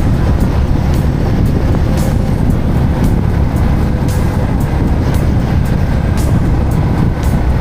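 Motorcycle on the move: steady wind rumble on the camera microphone mixed with the engine and road noise.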